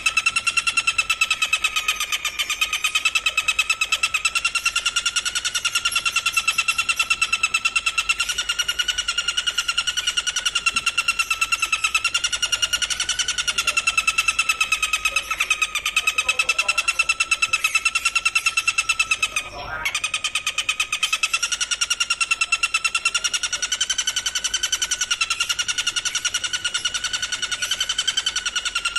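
A continuous, very rapid trill held on one steady pitch, wavering slightly, from a songbird-training recording of insect and bird calls. It breaks off for a moment about two-thirds of the way through, then runs on.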